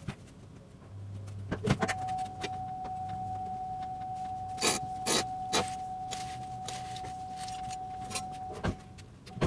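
Knocks and clicks from the 2003 Pontiac Grand Am GT as its steering wheel is turned to full lock, with a steady high tone sounding from about two seconds in until just before the end.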